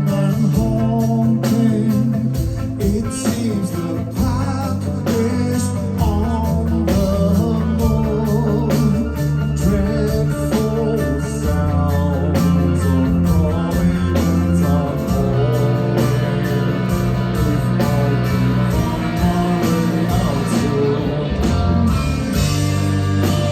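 Rock band playing live, electric guitar over bass with a steady beat.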